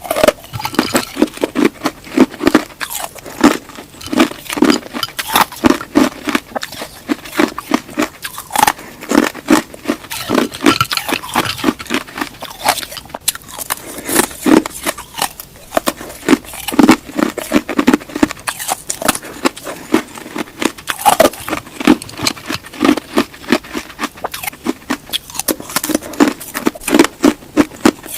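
Close-miked eating of crunchy food: repeated crisp bites and chewing crunches, loud and continuous, with a steady chewing rhythm.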